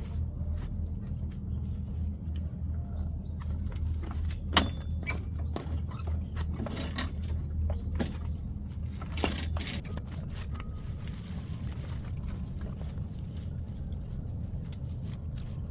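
A motor running with a steady low hum, with scattered clicks and knocks over it; the hum drops away about ten seconds in.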